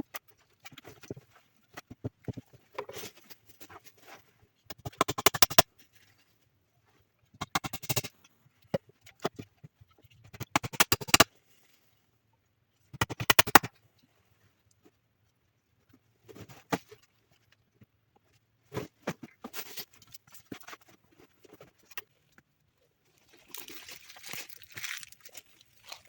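Repeated bursts of rapid scraping, each about a second long, coming every few seconds with short pauses between.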